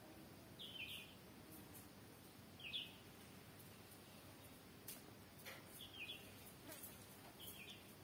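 Near silence, broken by a bird chirping faintly four times: short, falling calls spaced a second or more apart, with a few faint clicks in between.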